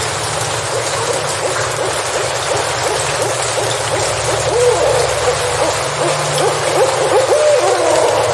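Steady rain falling in a forest. Over it, a repeated low-pitched animal call comes in quick wavering notes from about four and a half seconds in.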